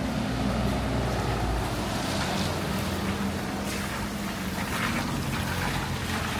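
A motor vehicle's engine running with a steady low hum, over the hiss of a wet street in rain.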